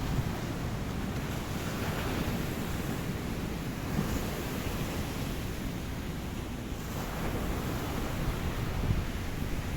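Ocean waves breaking and washing on a beach, a steady rush of surf that swells and eases gently, with wind rumbling on the microphone.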